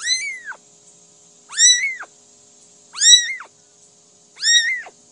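A cat meowing four times, about every second and a half, each call rising and then falling in pitch.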